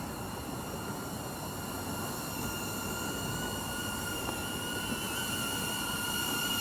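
Small camera drone's propellers whining in a steady pitch, slowly growing louder as the drone flies back in from its automatic zoom-out run.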